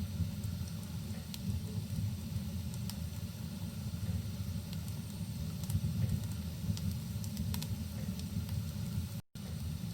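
Wood fire crackling with scattered small pops over a steady, muffled low rumble of rain. The sound cuts out completely for a split second near the end.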